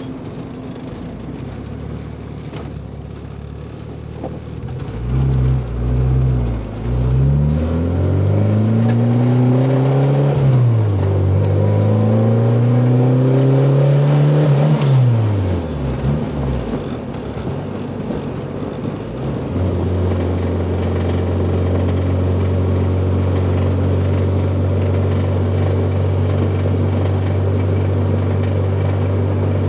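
1993 Honda Civic engine idling, then revved up and down several times through the middle before settling into a steady, higher running speed. This is the engine its owner reports as knocking.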